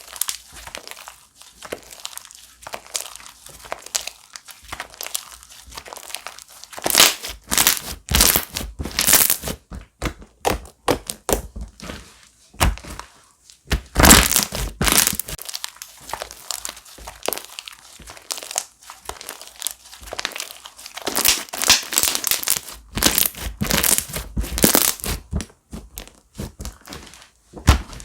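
Slime being squeezed, pressed and stretched by hand, giving off irregular runs of crackling and popping with squishy pulls in between. Several louder runs of crackling come a few seconds apart.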